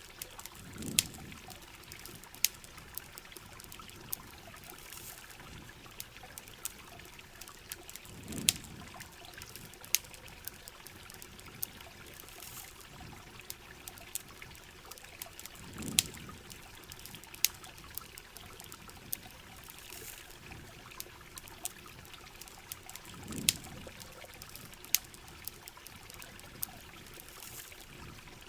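Steady rain and trickling water, with sharp irregular crackles and pops from a campfire. A low swell rises and fades about every seven and a half seconds, four times.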